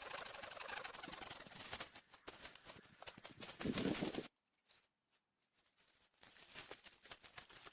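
Dry oak leaves rustling and crackling as they are handled and spread by hand. The sound breaks off abruptly about four seconds in, then comes back more quietly.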